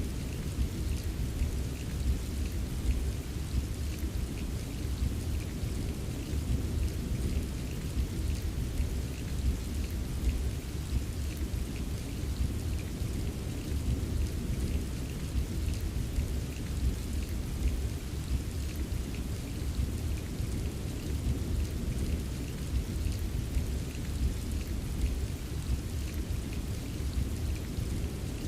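Steady rain ambience: rain falling evenly with fine patter and a constant deep rumble underneath.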